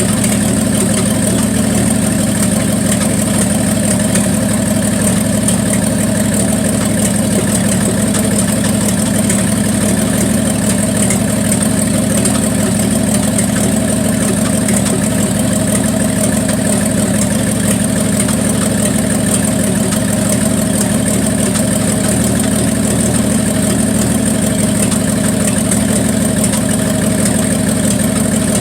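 1974 Plymouth Duster's slant-six engine idling steadily, warmed up, with a miss in it; the owner thinks the valve train is set too tight.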